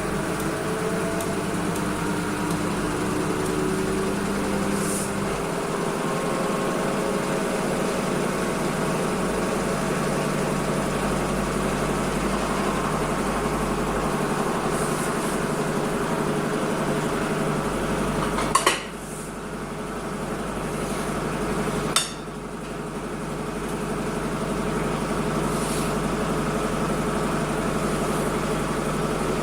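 Washing machine running with a steady mechanical whir and hum, a few rising tones in the first seconds. Two sharp clicks, about 19 and 22 seconds in, are each followed by a sudden drop in the noise that builds back up over a few seconds.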